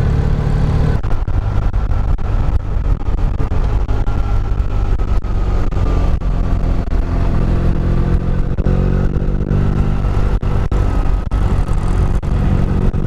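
Motorcycle engine running at steady road speed under a heavy low wind rumble, its note easing slightly and then climbing again.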